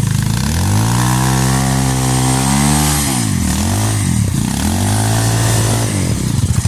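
Trail motorcycle engine revving: the pitch climbs over the first second and holds, drops and rises again twice near the middle, then settles at a steady rev.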